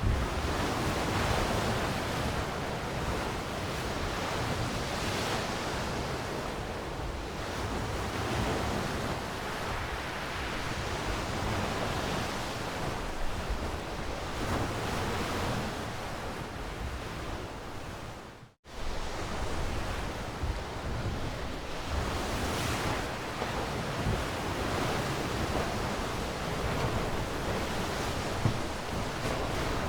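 Ocean waves washing onto a shore, a steady surf that swells and eases every few seconds. About two-thirds of the way through it drops out for a split second and then resumes.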